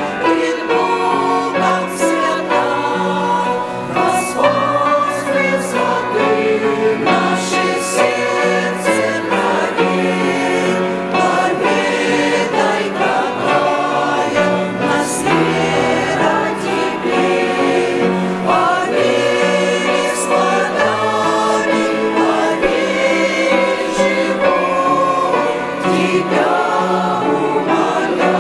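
A choir singing a Christian hymn in Russian, sustained and continuous.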